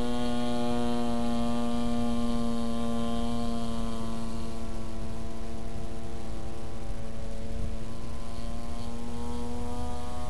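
Engine and propeller of a giant SPAD radio-controlled model plane, a steady drone at one pitch. It fades somewhat midway and grows stronger again near the end.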